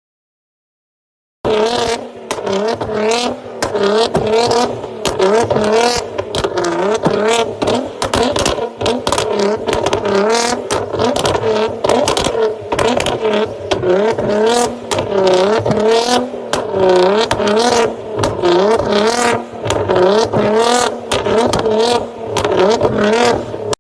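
Supercar engine revved up and down over and over through a loud exhaust, its pitch swinging repeatedly and broken by many sharp cracks. It starts abruptly about a second and a half in.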